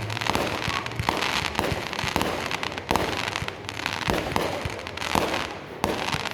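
Fireworks going off: a rapid, irregular run of bangs and pops over continuous crackling.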